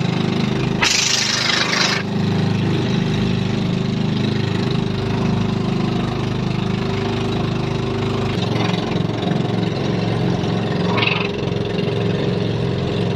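Small engine of a motorized outrigger boat running steadily under way. A brief rush of noise lasts about a second near the start, with a shorter, fainter one near the end.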